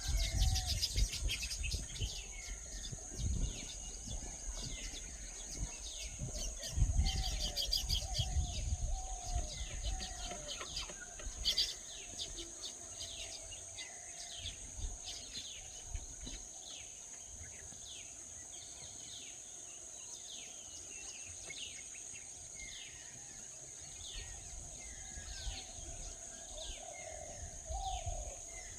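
Birds calling over a steady, high insect drone: short falling chirps repeat about once a second, with some lower whistled calls. There is low rumbling during the first several seconds.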